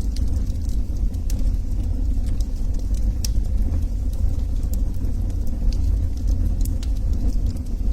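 Wood fire burning in a fireplace: scattered small sharp crackles and pops, several a second, over a steady low rumble.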